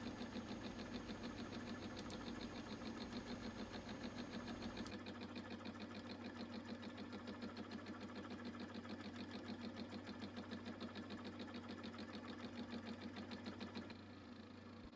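Milling machine turning a boring head that takes an interrupted facing cut on a crankshaft counterweight, the cutter striking the part in a fast, even pulsing. The pulsing stops near the end, leaving a quieter hum.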